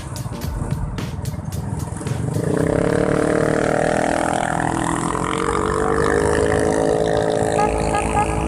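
Motorcycle engine accelerating: after about two and a half seconds its pitch rises, then holds steady at speed. A run of sharp ticks comes before it.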